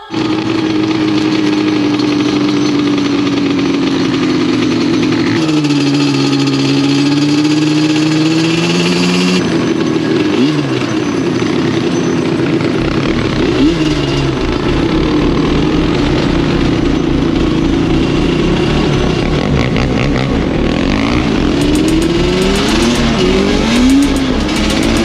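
Quad ATV engines running and revving, the pitch rising and falling as they ride, with abrupt changes in the engine sound where shots are cut together.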